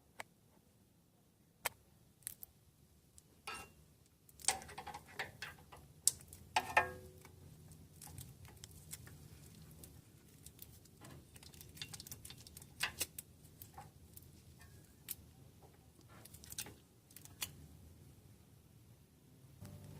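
Irregular clicks and light metallic knocks of hand work on metal, busiest about five to seven seconds in, over a faint low hum.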